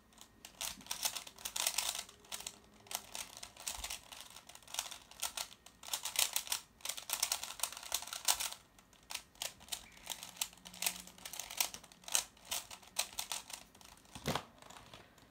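Plastic twisty puzzle cube being turned quickly by hand: a dense, irregular run of plastic clicks and clacks, with a brief pause near the end.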